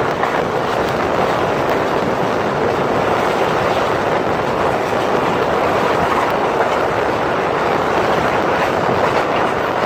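Passenger train running steadily on track, heard from inside a coach: a continuous rush and rumble of wheels on rail.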